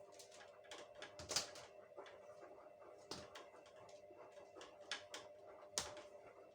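Irregular light clicks and knocks, two of them sharper, over a faint steady hum.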